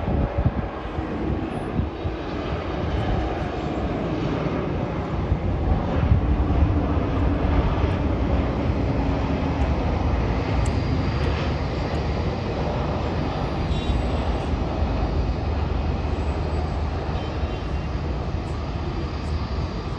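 Jet airliner engines running, a steady, heavy noise that peaks slightly about six seconds in.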